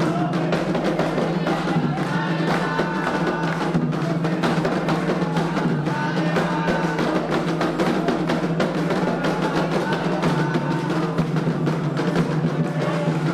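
Candomblé ceremonial music: fast, steady hand drumming with voices chanting over it.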